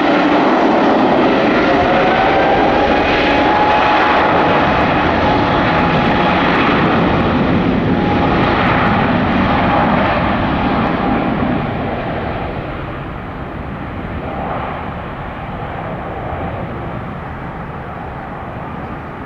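Airbus A321-200 jet departing, its engines loud with a steady whine over the jet noise, then dropping off after about eleven seconds as it moves away.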